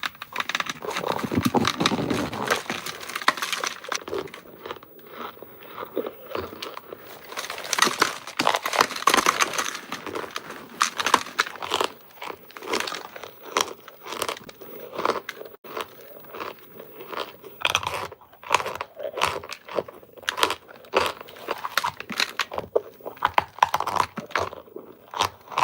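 Hard-baked cornstarch bricks crunching. The crackly crunches come in dense clusters with short quieter lulls between them.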